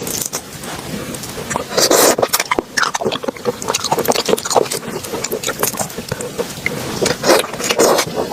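Close-miked eating of raw shrimp: wet chewing and mouth smacking, with irregular sharp clicks and short squelching bursts.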